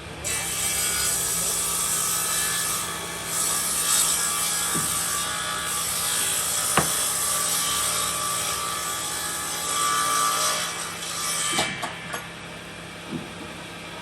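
Sawmill saw cutting through timber: a steady hissing cut over the hum of the machine, starting just after the opening and easing off about eleven seconds in, with a sharp knock midway and a few more knocks near the end.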